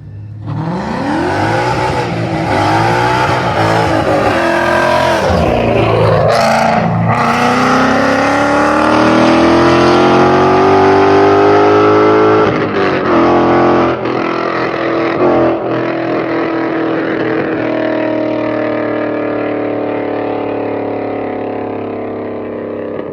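Car engines accelerating hard through the gears in a street race: the pitch climbs, drops at each upshift and climbs again, then the engines settle and fade near the end.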